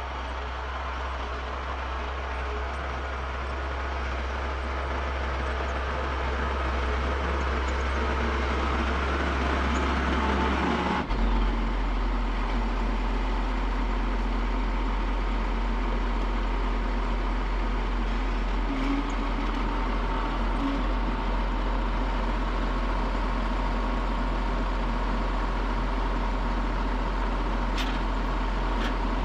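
A vehicle driving, a steady engine and road rumble, heard from inside. About eleven seconds in the rumble changes abruptly and then carries on steady.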